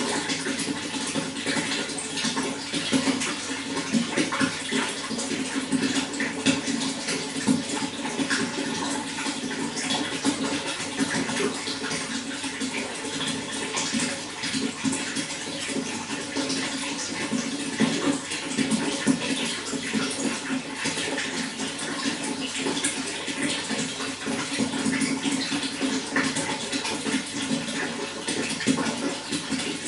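Running water flowing steadily, an even rush dotted with many small splashes.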